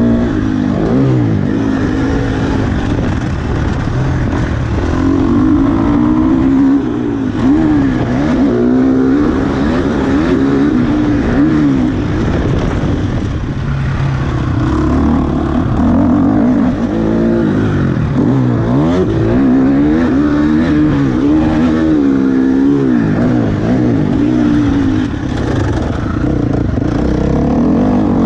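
KTM 350 SX-F's single-cylinder four-stroke engine under load, its pitch rising and falling again and again as the throttle is opened and closed through the gears.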